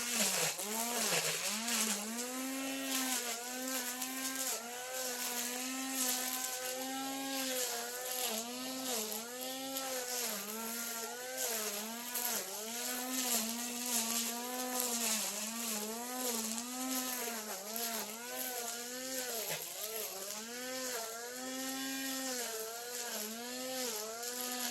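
Brush cutter engine running at high speed while cutting grass, its pitch dipping briefly and recovering again and again as the blade takes load.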